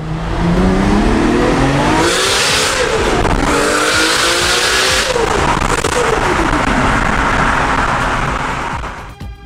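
High-revving sports car engine accelerating hard, its pitch climbing in steps with each gear change. The revs then fall away and the sound fades near the end. Loud hissing noise sits over the engine during the hardest pulls.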